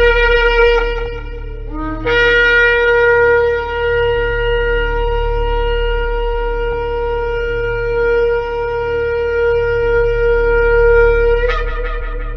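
Shofar blown. One blast ends about a second and a half in; after a short rising note, a long steady blast is held for about nine seconds, then jumps up in pitch near the end and fades.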